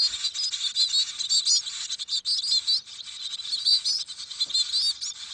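Bird chicks in a nest chirping continuously: many quick, high-pitched calls overlapping one another.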